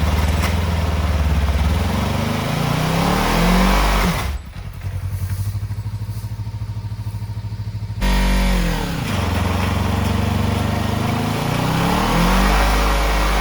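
Kawasaki Ninja 300 parallel-twin engine revved hard in a burnout attempt with the rear tyre spinning. The revs rise and fall, drop to a pulsing idle about four seconds in, then jump straight back to high revs and climb again.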